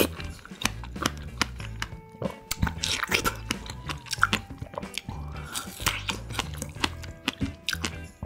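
Biting into and chewing fresh strawberries close to the microphone, with many short mouth clicks. Background music plays underneath.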